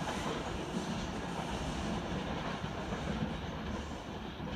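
Seibu 2000 series electric train running away down the line: a steady rumble of wheels on rail that eases off slightly near the end as it recedes.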